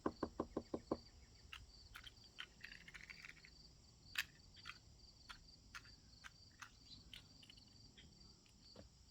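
Crickets chirping steadily in a fast high pulse. A quick run of about eight clicks comes in the first second, and faint scattered ticks follow.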